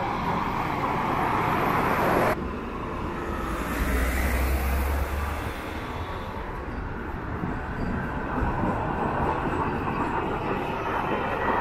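City traffic noise with a heavy vehicle rumbling past. The loud noise drops suddenly about two seconds in, and a deep rumble follows around four to five seconds in.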